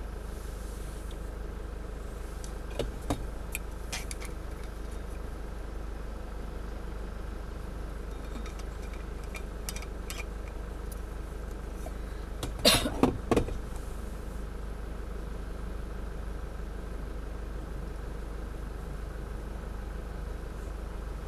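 A four-wheel-drive's engine running at a steady low idle. A few light clicks come through it, and a short, louder burst of clattering noise comes about thirteen seconds in.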